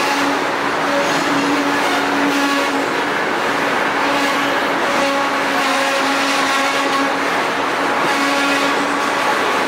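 Train rolling past close by, a loud steady rumble of wheels on rail, with a squeal that keeps cutting in and out.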